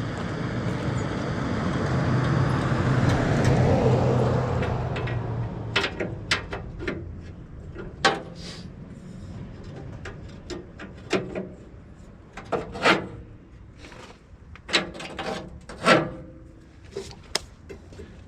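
A noise with a low hum swells and fades over the first five seconds. Then come scattered sharp clinks and knocks of metal parts being handled.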